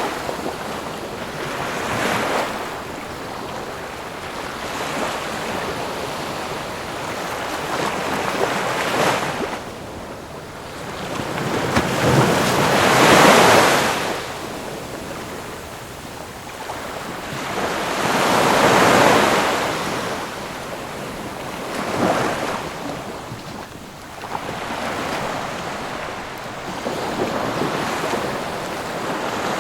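Ocean waves breaking and washing back, the surf swelling in slow surges every few seconds, the two biggest breaking about 13 and 19 seconds in.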